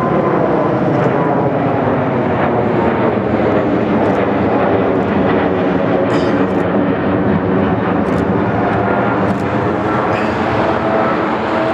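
Jet airliner passing low overhead: a loud, steady engine sound.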